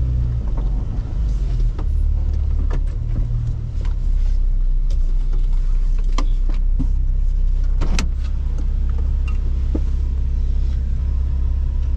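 Jeep Wrangler LJ on the move, a steady low engine and drivetrain rumble with scattered sharp knocks and rattles.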